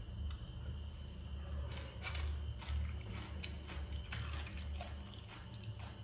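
A person chewing a mouthful of crispy masala-coated fried rohu fish with raw onion. The chewing comes as irregular soft crunches.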